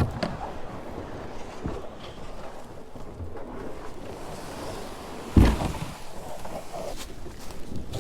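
Wind noise on the microphone with light handling knocks, and one heavy thump about five and a half seconds in.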